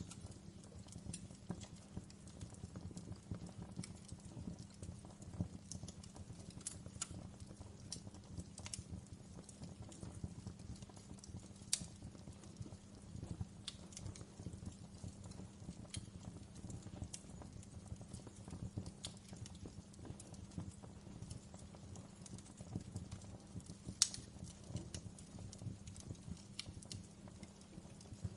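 Wood fire crackling in a fireplace: a steady low rumble of burning with scattered small pops and snaps, and two sharper pops, one near the middle and one near the end.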